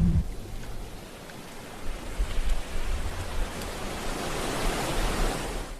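Wind buffeting the microphone: a steady rushing hiss with uneven low rumbling gusts, cutting off abruptly near the end.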